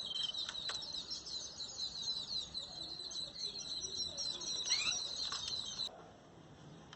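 A feeding flock of rosy starlings mixed with mynas, chattering in a dense stream of quick, high calls that cut off abruptly about six seconds in.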